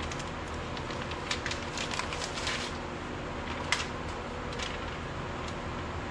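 Scattered crackles and sharp clicks of hands-on installation work, bunched in the first half with one louder click in the middle, over a steady low hum.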